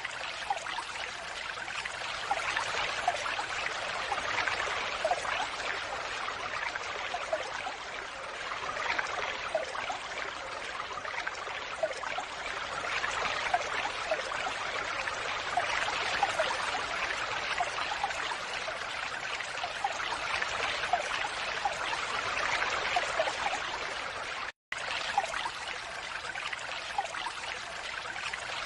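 Falling water splashing and trickling in a steady, even stream. The sound cuts out for an instant near the end.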